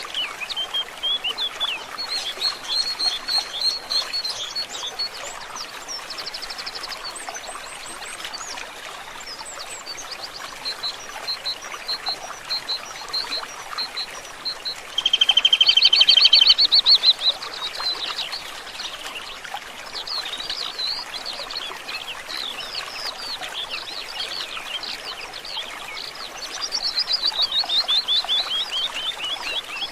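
Several wild birds singing and calling over a soft, steady trickle of water. The loudest is a fast trill about halfway through, and a quick run of falling notes comes near the end.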